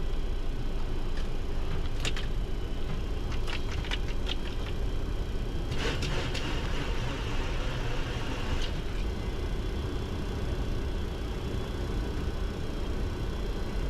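Cockpit noise of a Boeing 737-200 taxiing with its Pratt & Whitney JT8D engines at idle: a steady low rumble. A few sharp clicks come between about two and four and a half seconds in, and a brief hiss about six seconds in.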